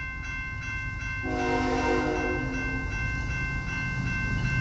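Canadian National freight train passing, its diesel locomotive's multi-chime air horn sounding one chord of about a second and a half, starting about a second in. Under it are the low rumble of the train and a bell dinging rapidly, about four strikes a second.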